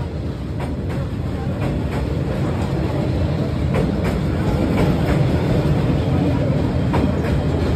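Vietnam Railways passenger coaches rolling past at close range: a steady low rumble of wheels on rails, with scattered clicks, growing slightly louder.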